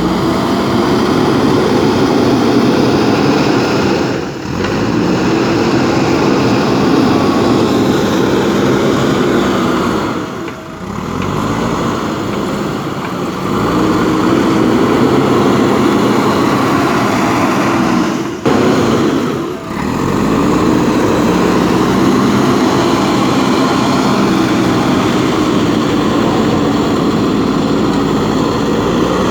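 Backhoe loader's diesel engine running steadily under work, its level dipping briefly a few times.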